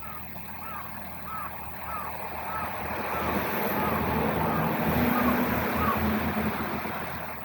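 A vehicle passing by, its noise swelling to a peak a few seconds in and then fading away.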